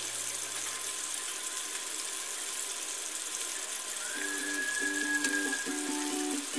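Turmeric-coated chicken pieces frying in oil in a wok, a steady sizzle. About four seconds in, background music with a whistled melody starts over it.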